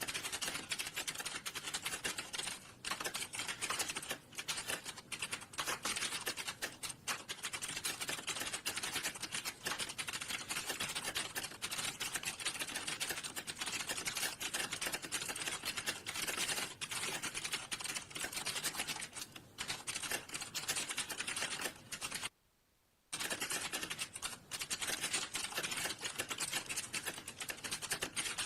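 Rapid, continuous typing on a computer keyboard, a dense stream of keystroke clicks broken once by a brief silent gap about three-quarters of the way through.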